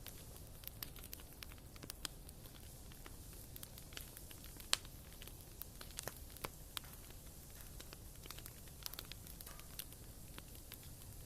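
Wood fire burning in a fireplace: irregular crackles and small pops from the burning logs over a faint low hiss, with one sharper pop about halfway through.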